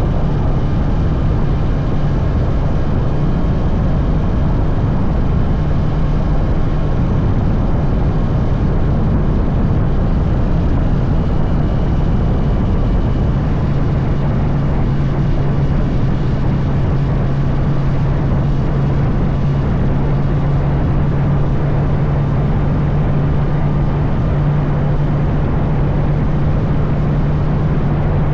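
Honda CB650R's inline-four engine running steadily at cruise on the move, under heavy wind and road noise. Its note shifts slightly lower and clearer about halfway through.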